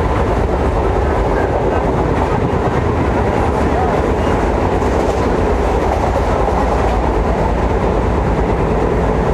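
Suburban EMU local train running between stations, heard from aboard: a steady, loud rumble of wheels on the track and the carriage in motion.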